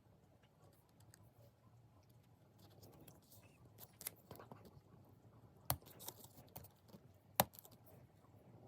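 Faint small clicks and taps of hand tools and parts being handled while a MacBook Pro laptop is taken apart, with two sharper clicks in the second half.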